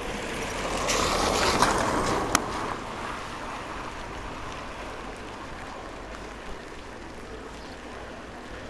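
A vehicle passing on a wet road, its tyres hissing as it swells and fades in the first few seconds, over a steady hiss of rain.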